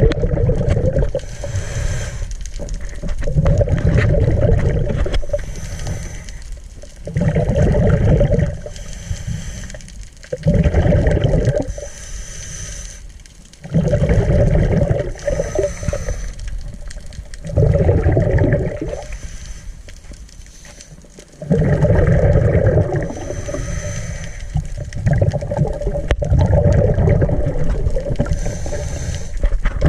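A diver breathing underwater through a regulator: the exhaled bubbles gurgle in rhythmic surges every two to three seconds, with a faint high hiss between breaths.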